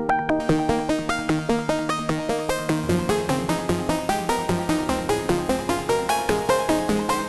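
Korg Minilogue XD synthesizer playing a factory preset, dry without effects: a fast repeating pattern of short pitched notes, about four a second. A deeper bass part joins about three seconds in.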